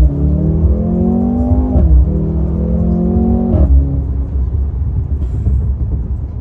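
Mercedes-AMG C43's turbocharged four-cylinder engine heard from inside the cabin under hard acceleration. Its pitch climbs, drops at an upshift about two seconds in, climbs again and drops at a second upshift near four seconds, then settles to a steadier cruise.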